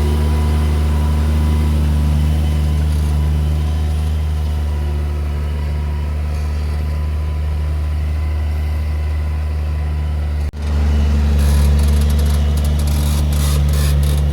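New Holland T7040 tractor's six-cylinder diesel engine running with a steady low drone while pulling a subsoiler ripper. About ten seconds in the sound cuts out for an instant and comes back louder.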